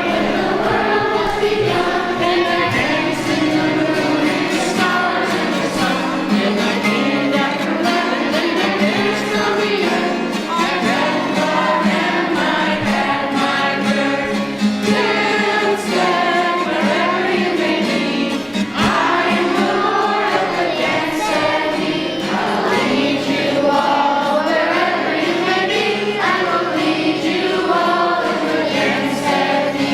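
A choir singing a Christian song with instrumental accompaniment.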